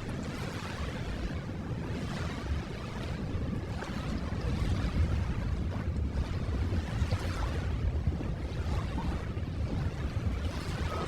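Recorded ocean waves: a steady rush of surf washing in and out, swelling a little louder about four to five seconds in.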